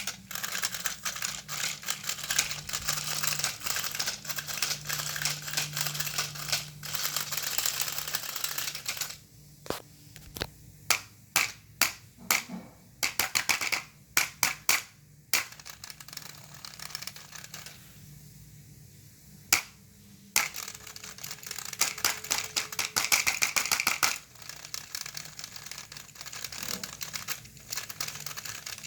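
Battery-powered toy train engines running, a fast clicking rattle of small plastic gears and wheels over a low motor hum. The running comes in spells, broken by a stretch of separate sharp clicks and knocks.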